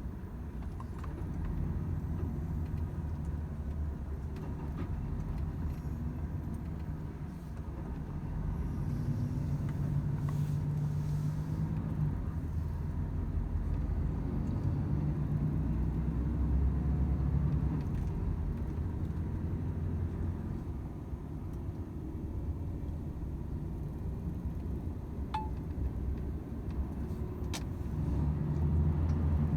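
Volvo FH 500 truck's 13-litre six-cylinder diesel running while driving, a low drone whose pitch and loudness rise and fall with engine speed and load.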